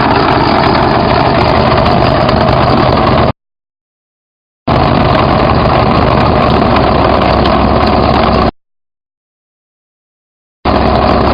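ProTruck engine running at a steady, even speed. The sound cuts off abruptly to dead silence twice, a little over 3 s in and about 8.5 s in, and each time picks up again at the same level after one and a half to two seconds.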